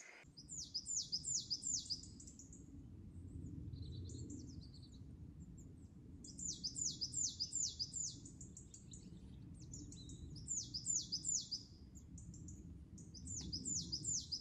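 Birds singing. One bird repeats a phrase of quick, high, downward-sliding notes several times, each phrase lasting about a second and a half, with softer chirps in between, all over a low steady background rumble.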